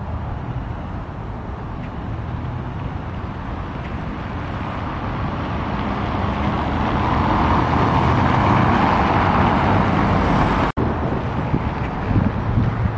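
A motor vehicle's engine and traffic noise, with a steady low hum. It swells louder as if a vehicle is passing close, peaks past the middle, then breaks off for an instant about three-quarters of the way in.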